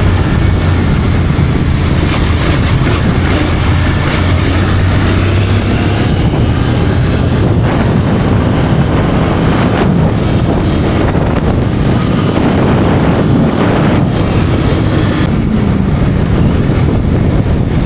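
Motorcycle riding at speed, its engine running steadily under heavy wind noise on the microphone. The engine's low hum is strongest for the first six seconds, then sinks into the rush of wind.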